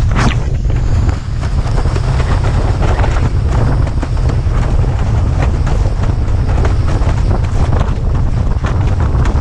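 Strong wind buffeting the microphone of a head-mounted action camera as a windsurfer sails at speed. The rumble is heavy and unbroken, with frequent short splashes and slaps of water from the board on the chop.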